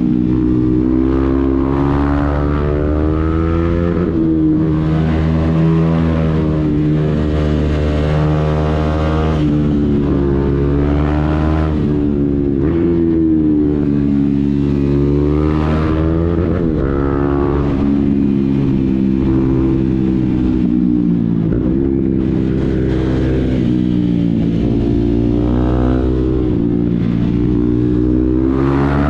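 KTM Duke 390's single-cylinder engine through a Mivv GP Pro exhaust with the catalytic converter removed, its pitch rising and falling repeatedly as the bike accelerates and eases off.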